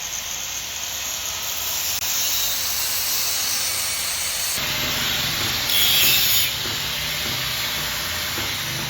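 A power tool working on exhaust metal, a steady harsh rasping hiss that gets louder and brighter about six seconds in.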